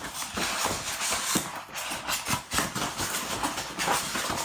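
Packaging being handled and pulled out of a cardboard box: steady rustling with many small knocks and scrapes.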